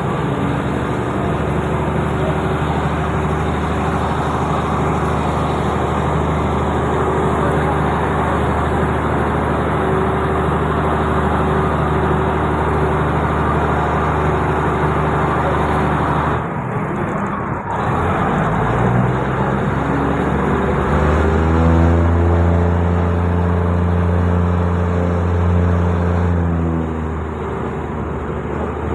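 Diesel railcar engine running under load, a steady low hum. About two-thirds of the way through the note drops away for a moment, then climbs in pitch and runs louder for several seconds before easing back near the end.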